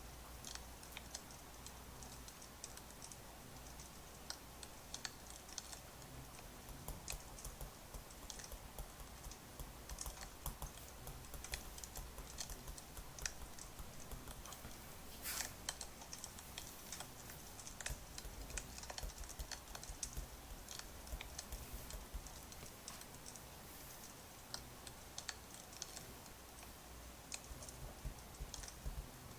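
Wood fire crackling, with irregular sharp pops and snaps of varying strength over a steady low rumble, and one louder pop about halfway through.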